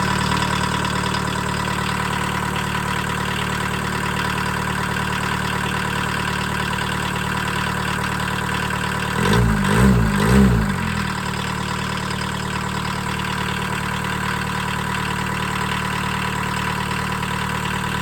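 1982 Volkswagen Caddy's 1.6 diesel four-cylinder idling steadily just after a cold first start in years, helped by glow plugs and ether. It is revved briefly twice about nine to ten seconds in, then settles back to a steady idle.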